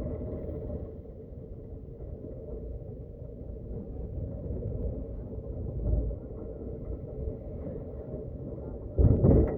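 Steady low rumble of a moving road vehicle, with a loud thump near the end.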